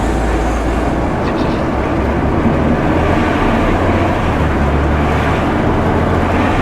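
Ready-mix concrete truck's diesel engine running steadily with road noise while the truck drives.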